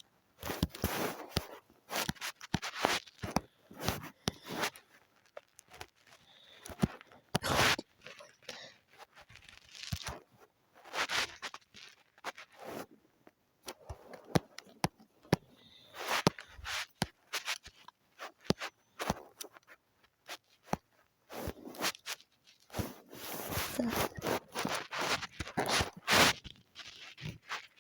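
Irregular scratchy strokes and sharp taps close to the microphone, typical of drawing and handling noise, some strokes short and some drawn out over a second or so.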